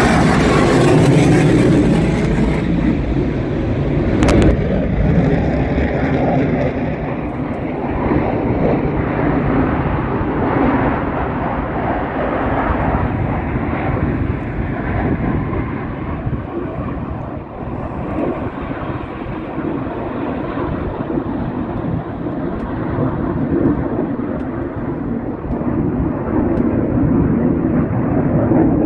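Blue Angels jet noise: loud at the start, its high hiss fading over the first few seconds as the jet moves away, then a lower steady rumble that goes on.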